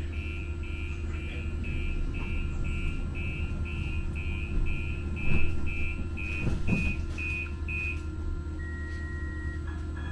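An electronic warning beeper sounds about two short high beeps a second for some eight seconds, then gives one longer tone near the end, over the steady low rumble of a Muni Metro light-rail train running.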